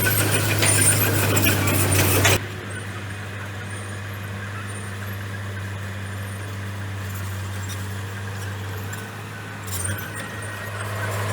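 Komatsu bulldozer's diesel engine running, with loud rattling and clanking over it for about the first two seconds. The racket then drops suddenly to a quieter, steady engine hum, and it grows louder again near the end.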